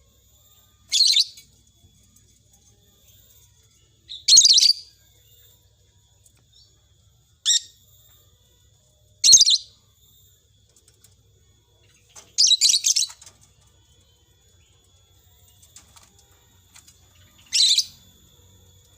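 A bird giving six short, high chirps, spaced a few seconds apart.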